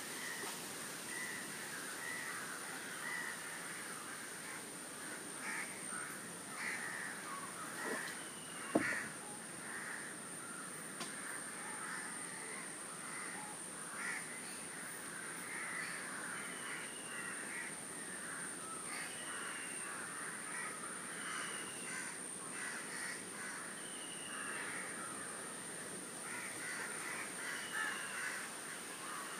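A chorus of birds calling, with short falling whistles repeating every second or two in the second half, over a steady high whine. A single sharp click about nine seconds in.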